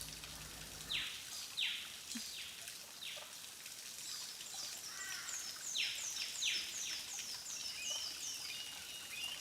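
Birds calling in rainforest: a run of short calls, each sliding down in pitch, repeated about once or twice a second, with a faster series of higher descending notes partway through.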